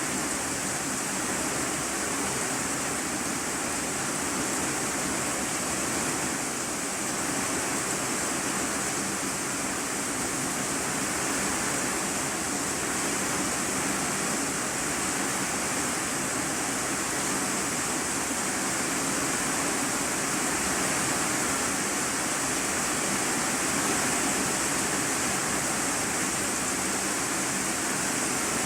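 Heavy rain falling on an iron-sheet roof, heard from inside the room beneath it: a steady, even hiss with no single drops standing out.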